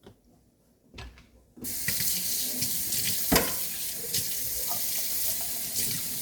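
Kitchen tap turned on about a second and a half in and left running, water splashing steadily into the sink. A few knocks come before it starts and on top of the running water, one sharp knock in the middle being the loudest.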